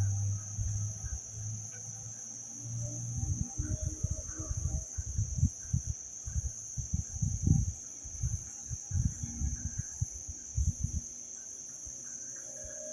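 Steady high chirring of crickets, with irregular low thuds and rumbles through the middle of the stretch.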